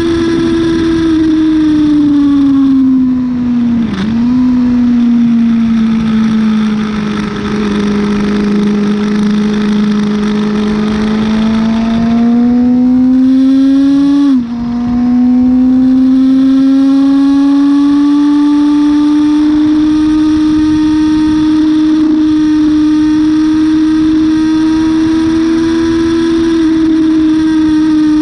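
Yamaha R6's inline-four engine from onboard on a track lap. Revs fall under braking, with a downshift to second about four seconds in, and stay low through a slow corner. Revs then climb to an upshift to third at about fourteen seconds and rise steadily again, with steady wind rush throughout.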